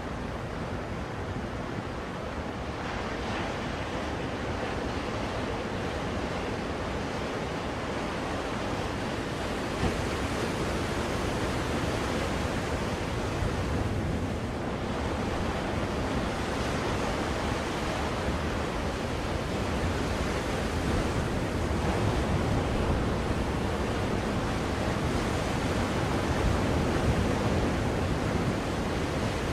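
Ocean waves washing on a shore, a steady hiss of surf that swells and eases slowly, played as white noise to soothe a crying baby.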